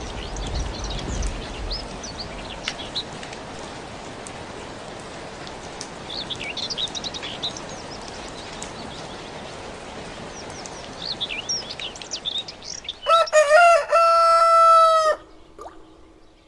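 Small birds chirping over a steady outdoor hiss, then a rooster crows loudly once for about two seconds near the end, its call falling in pitch as it ends.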